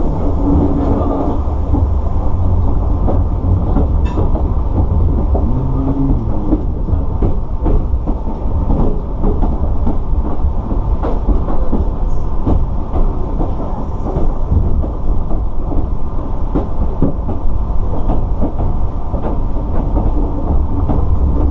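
Sotetsu 9000 series electric train running along the track, heard from inside the car. A steady low rumble with irregular wheel clicks over rail joints and points.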